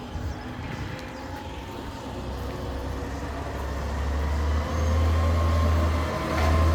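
Garbage truck's diesel engine running, getting steadily louder from about two seconds in.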